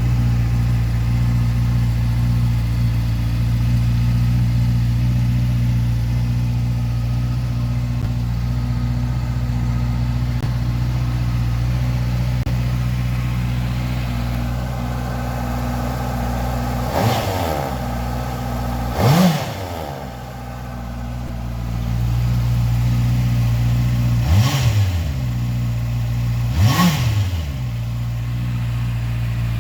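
Honda CBR650F's 649cc inline-four engine idling steadily, with four quick throttle blips in the second half, each rising sharply in pitch and dropping back to idle.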